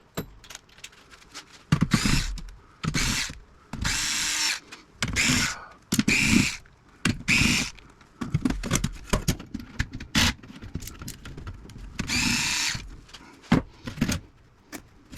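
A cordless power drill or driver runs in about seven short bursts, a dense run of them between two and eight seconds in and one more near the end. Small clicks and handling noise come between the bursts.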